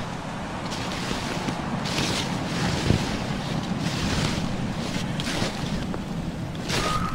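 Water and wind noise, with surges of hiss every second or so like waves washing. Near the end a brief high squeak sounds.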